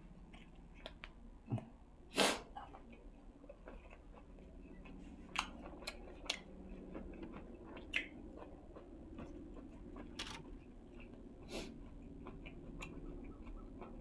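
A person chewing food close to the microphone, with irregular wet mouth clicks and a few louder crisp crunches.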